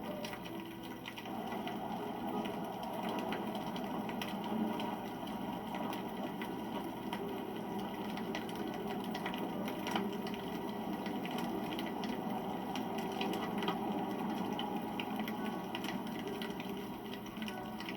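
Wood campfire burning steadily, with dense small crackles and a few sharper pops.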